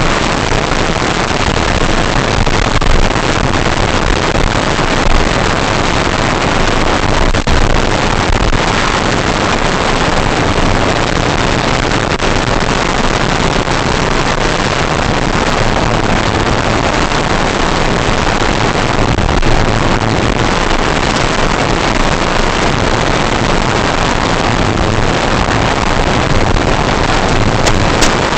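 Steady loud rush of airflow and propeller noise on an RC model Cessna 182 in flight, with no distinct motor whine standing out.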